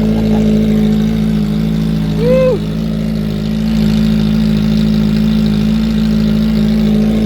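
Kawasaki ZX-4RR's inline-four engine idling steadily with its stock exhaust canister removed, running open and very loud. About two seconds in, a brief rising-and-falling tone sounds over it.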